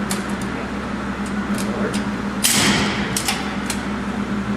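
A vehicle engine idling with a steady low hum, with a scatter of sharp clicks and knocks. A sudden loud burst of noise about two and a half seconds in fades over about half a second.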